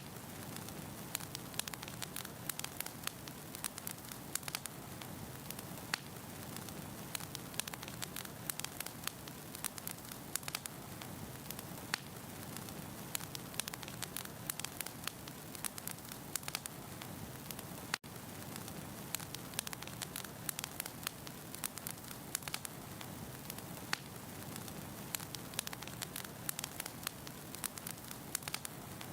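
Firewood burning in a fireplace: a steady low rush of flame with frequent irregular crackles and pops from the logs.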